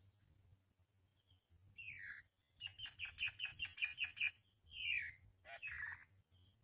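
Birds calling: a downward-sliding call, then a quick run of about ten sharp chirps at roughly six a second, then two more downward calls.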